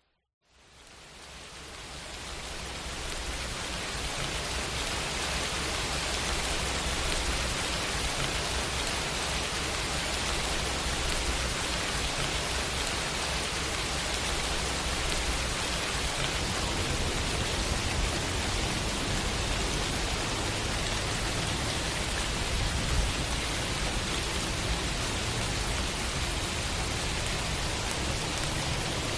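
Steady heavy rain, a dense even hiss with a low rumble underneath, fading in from silence over the first few seconds and then holding steady.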